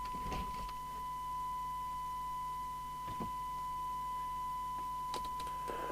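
Steady 1 kHz test tone from the Domico Convoy 1 CB radio's receiver, demodulated from the signal generator and played through the test set's speaker for a SINAD sensitivity measurement. A couple of faint clicks come in the middle, and near the end receiver hiss rises under the tone as the signal is brought down toward 12 dB SINAD.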